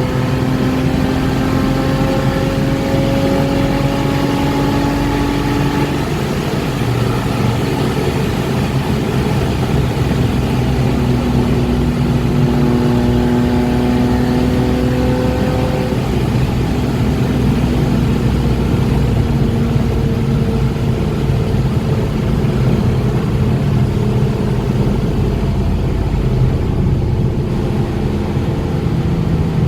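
BMW E36 325i's inline-six engine running, its pitch climbing slowly and then dropping back about six seconds in and again about sixteen seconds in.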